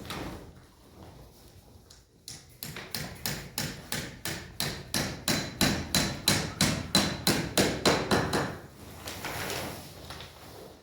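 Hammering: a steady run of quick, sharp strikes, about four a second, growing louder and then stopping about three-quarters of the way through.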